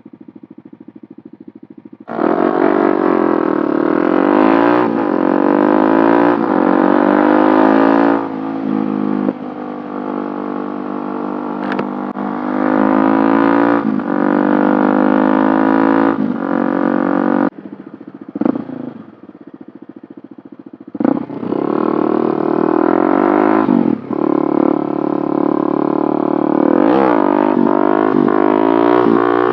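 Small 50cc motorcycle engine idling quietly for about two seconds, then revving up and running hard, its pitch rising and falling through the gears. It eases off sharply twice, with a short blip of throttle in between.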